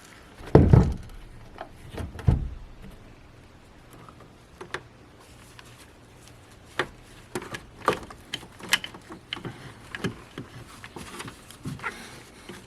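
Hands working car parts back into place: two dull thumps in the first couple of seconds, then a run of scattered sharp clicks and knocks of plastic and metal parts being handled and pushed together.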